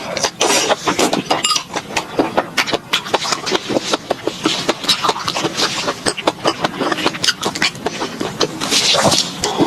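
Close-miked chewing of fried enoki mushroom skewers: a dense, irregular run of crisp clicks and crackles from the crunchy fried coating and wet mouth sounds.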